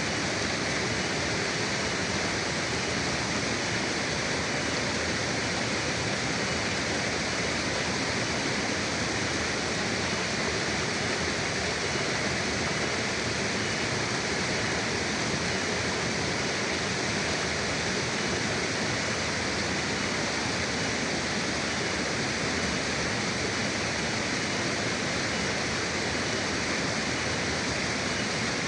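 A river flowing: a steady, even rush of water with no separate splashes or breaks.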